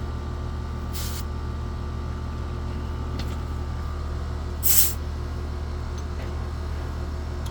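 Air conditioner condensing unit running with a steady hum. Two short hisses of refrigerant escape as the gauge hoses are disconnected from the service ports, one about a second in and a louder one near the middle.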